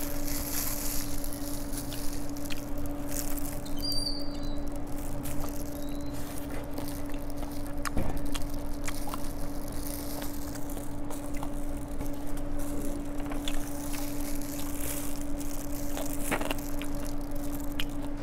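Close-miked eating of seasoned fried chicken: chewing and biting, with wet smacking and many small clicks as meat is picked off the bone. A steady low hum runs underneath.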